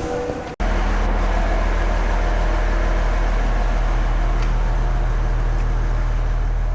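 Steady low engine hum of an idling vehicle, running evenly without change. It begins abruptly about half a second in, where background music cuts off.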